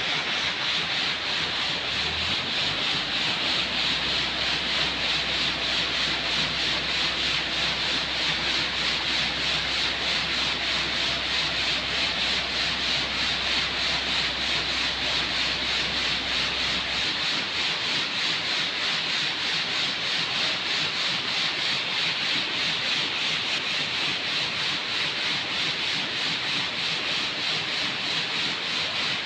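Steady rasping, hissing work noise with a fast even flutter. A low hum underneath runs for the first half and stops abruptly about seventeen seconds in.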